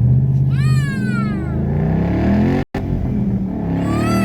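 2012 Ford Mustang Boss 302's 5.0-litre V8 running through SLP Loudmouth axle-backs with the side-pipe resonators removed, heard from inside the cabin while driving; its pitch rises as the car accelerates. A child's high-pitched squeal sounds about half a second in and again near the end.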